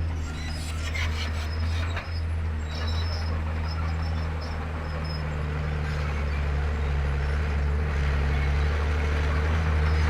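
Komatsu D31P bulldozer's diesel engine running steadily under load, with a few metallic clanks in the first couple of seconds.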